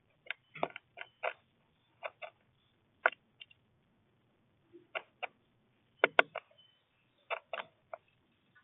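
Irregular sharp taps and clicks, some in quick pairs, of small birds at a bird feeder pecking and landing.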